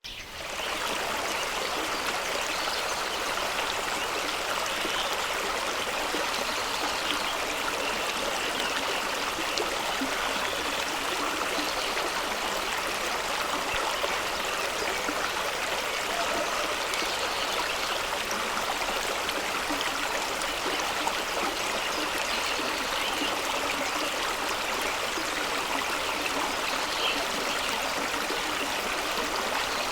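Fast-running stream rushing and splashing over rocks, a steady even rush of water with no breaks.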